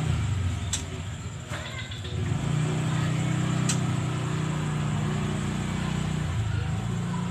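An engine running steadily at idle, with a low even hum that grows louder about two and a half seconds in; a few brief high clicks sound over it.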